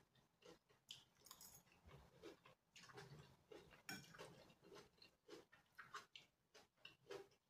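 Faint chewing of a mouthful of noodles and vegetables, with short irregular clicks of a fork against the plate.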